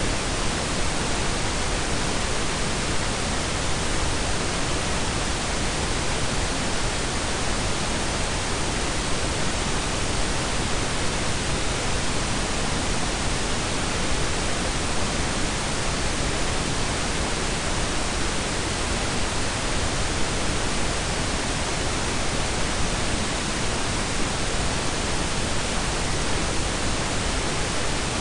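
Steady blend of pink and brown noise: an even, unchanging hiss with a deep low rumble beneath it.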